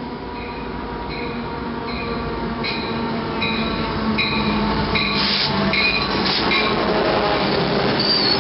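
Train running on the rails, growing steadily louder, with a short high ringing that comes and goes in a regular rhythm about one and a half times a second.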